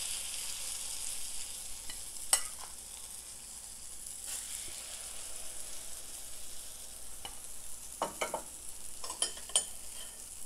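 Herb-and-egg omelette batter sizzling steadily in hot sunflower oil in the cups of a multi-cup pancake pan. A few short clinks and scrapes come from a spoon against the pan as more batter is spooned into an empty cup, once about two seconds in and a few times near the end.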